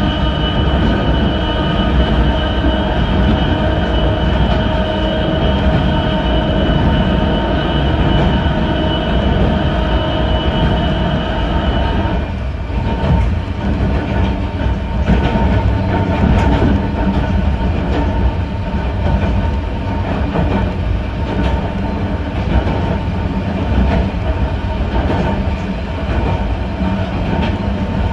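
A 762 mm narrow-gauge electric train running, heard from inside the front cab. A steady whine of several tones sounds over the rumble until about twelve seconds in, then fades out. After that the wheels rumble and clatter over the track.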